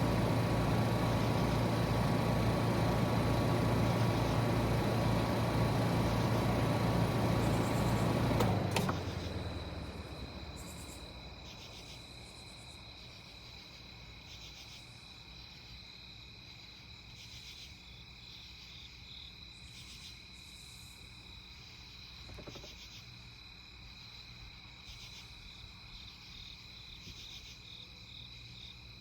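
Trane XR14 heat pump outdoor unit running in cooling mode, compressor and condenser fan humming steadily, then shutting off with a click about nine seconds in as the fan winds down. Crickets chirp in the quiet that follows.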